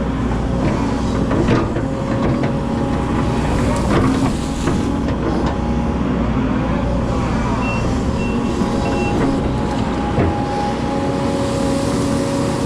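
Hydraulic excavator's diesel engine running steadily, with scattered knocks and clatter. Three short high beeps sound about two-thirds of the way through.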